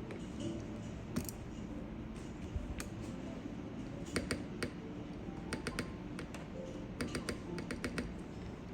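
Candy Box keycaps being pressed onto the stems of SW x Keygeek Tori switches on a mechanical keyboard. The sharp plastic clicks come irregularly, several in quick runs, with a dense run near the end.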